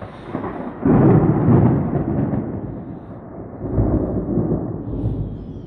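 Thunder from a nearby lightning strike: a sudden loud crack-and-rumble about a second in that rolls on and fades, then a second swell of rumbling near the middle that dies away.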